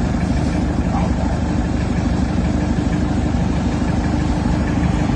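An engine running steadily at a constant speed, with an even, fast pulsing throb.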